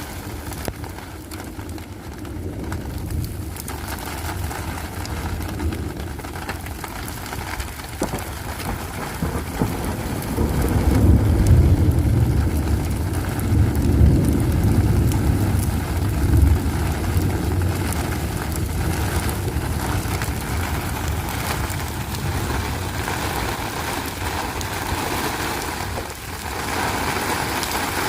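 Steady rain with scattered drop ticks, under a low rumble that swells about ten seconds in and eases off after about seventeen seconds.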